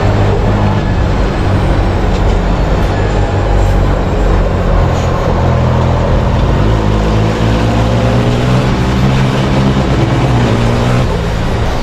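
Race truck's big diesel engine running hard under load, its pitch shifting up and down.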